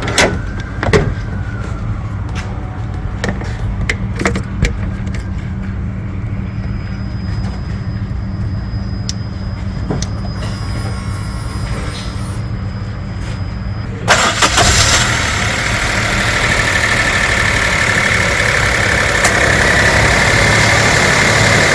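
Car engine idling with scattered clicks and knocks. About 14 seconds in, a loud, steady rushing noise starts abruptly and carries on over the engine.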